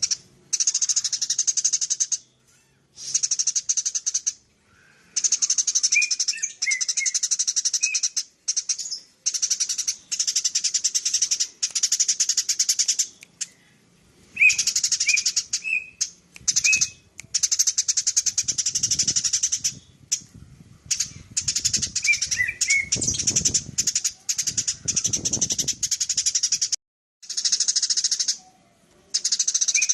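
Eurasian tree sparrow chattering in fast, continuous strings of high chirps, in bursts of one to a few seconds with short breaks between.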